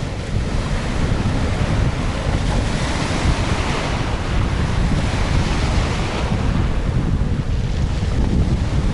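Strong wind buffeting the microphone with a low rumble, and a rushing hiss that swells in the middle and eases off near the end.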